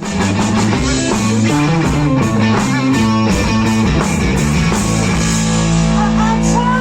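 A rock band with electric guitar, bass and drum kit plays a fast riff of quick stepping notes, then settles into a held, sustained chord about five seconds in.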